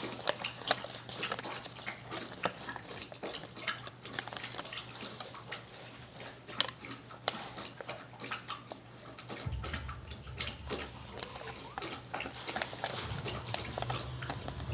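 Small plastic toy and its packaging being handled and opened: irregular light clicks, taps and rustles, with a low hum coming in about nine and a half seconds in.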